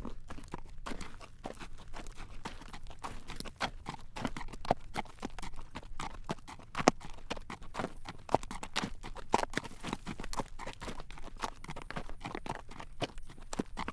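Carriage horse walking on a road, its hooves clip-clopping in a steady run of sharp clacks.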